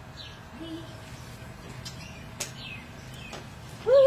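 Small birds chirping now and then. Near the end comes a loud call that falls in pitch.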